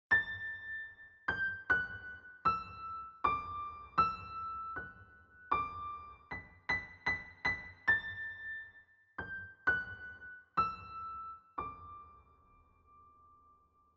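Background piano music: a slow melody of single struck notes, each ringing and fading, with the last note held and dying away near the end.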